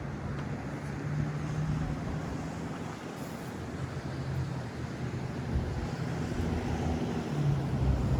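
City street traffic: a low engine hum from passing and idling vehicles, getting a little louder near the end, with some wind on the microphone.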